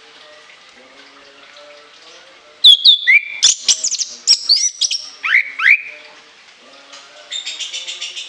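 Orange-headed thrush singing: about three seconds in, a loud burst of shrill whistled notes with sharp downward slurs, then near the end a fast, even run of about eight notes a second.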